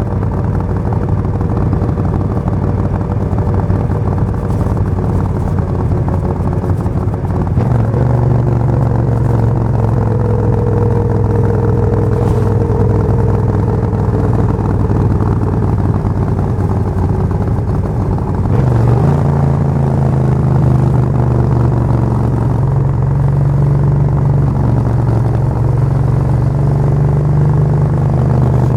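Suzuki VS1400 Intruder's 45-degree V-twin engine running steadily, its pitch stepping up twice, about a quarter and about two-thirds of the way in.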